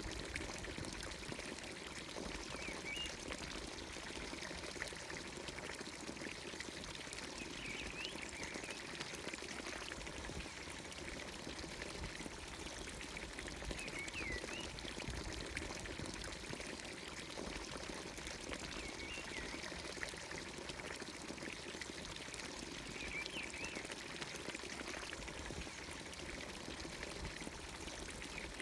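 Water pouring steadily from a village fountain's spout into its trough, with a bird giving a short chirp about every five seconds.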